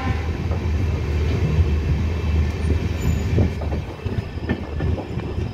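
Passenger express train pulling out of the station, heard from an open coach doorway: a steady low rumble of the coach running on the rails, with a few sharp wheel clicks over the rail joints in the second half.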